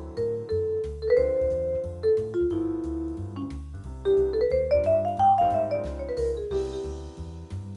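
Vibraphone playing a jazz solo line of ringing mallet notes over a backing track's walking bass. About halfway through, a quick run of notes climbs, then the line steps back down.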